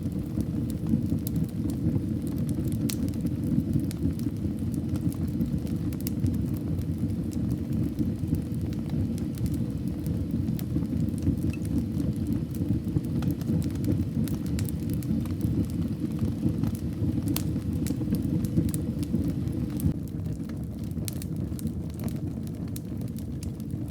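Wood fire burning in a fireplace: a steady low rumble of flames with scattered small crackles and pops, a little quieter near the end.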